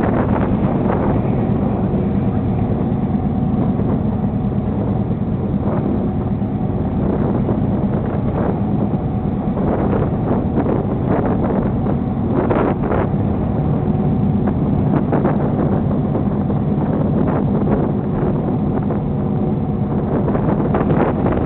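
Crew boat's engines running steadily under way, a loud continuous drone with a few short bursts of noise over it, and some wind on the microphone.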